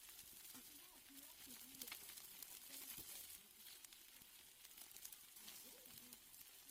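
Steaks sizzling faintly on a grill, with scattered small crackles and pops of fat.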